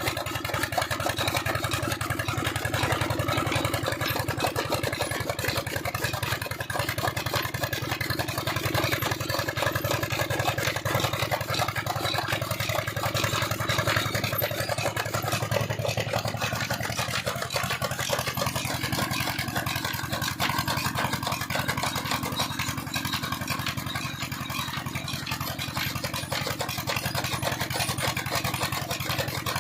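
Old stationary Peter diesel engine running steadily, driving a chaff cutter, with a fast even firing beat; its lower tone shifts a little about eighteen seconds in.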